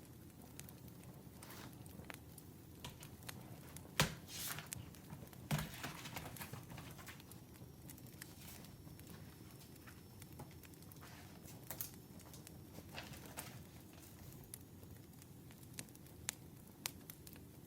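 Wood fire crackling: irregular pops and snaps over a low steady rumble, the loudest pops about four and five and a half seconds in.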